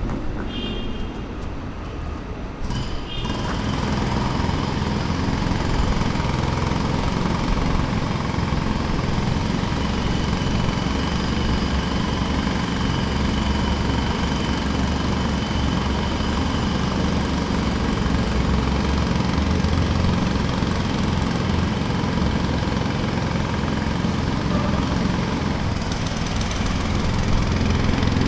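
Pneumatic jackhammer hammering in a rapid, steady rhythm. It grows louder about three seconds in and then keeps going without a break.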